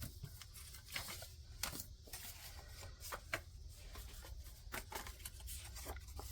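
Faint paper handling: scattered soft rustles and light taps of bills and paper, over a steady low hum.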